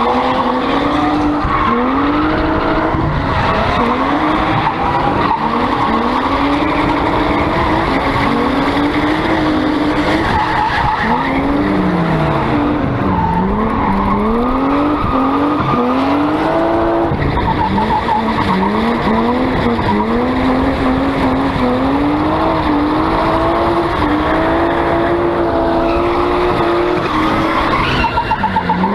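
BMW E36 318 Compact's swapped-in 2.8-litre straight-six revved hard while drifting, its note climbing and dropping again and again as the throttle is worked, over skidding and squealing tyres.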